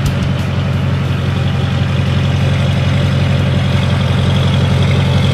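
A 2002 Chevrolet Silverado 2500 HD's Duramax V8 diesel idling steadily through its aftermarket MBRP exhaust, with a loud, even low note.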